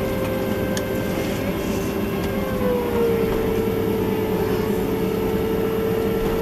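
Cabin noise of a Boeing 767-300ER taxiing after landing: a steady low rumble with a held engine whine at idle, one tone dipping slightly in pitch about two and a half seconds in.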